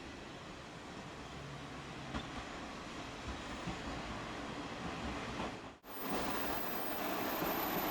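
Train running along the Dosan Line, a steady noisy sound of a diesel railcar on the rails; it drops out sharply for an instant about six seconds in and comes back louder.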